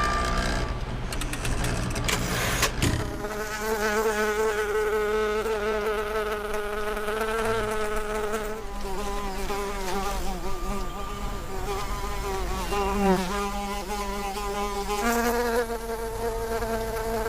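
An insect buzzing close by, its pitch wavering and shifting a few times.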